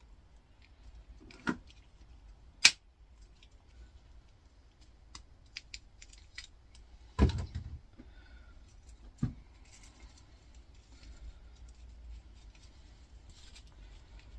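Small metal parts from a dismantled motor being handled on a workbench: scattered clicks and clinks, with a sharp tap about two and a half seconds in and a heavier knock about seven seconds in.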